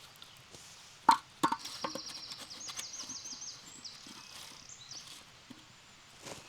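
A small songbird singing a quick series of high repeated notes, with a few sharp knocks about a second in.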